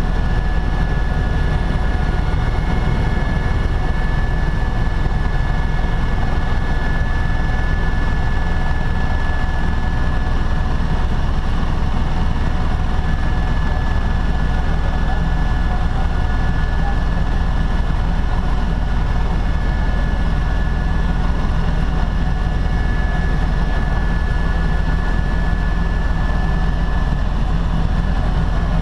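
Helicopter in flight, heard from on board: a steady, unbroken deep drone of engine and rotor, with a steady high-pitched whine on top.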